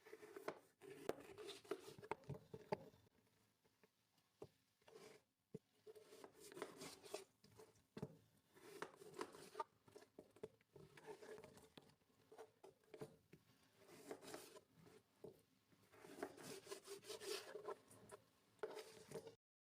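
Close-up hand-work sounds: soft rubbing and rustling with many light clicks and taps in irregular clusters, pausing briefly now and then.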